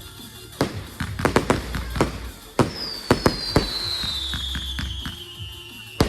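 Fireworks going off in a quick string of sharp bangs and cracks, with a long whistle falling in pitch from about three seconds in, over music playing.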